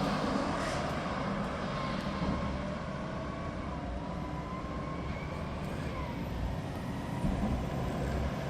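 Mack McNeilus front-loader garbage truck driving past, its diesel engine making a steady low rumble.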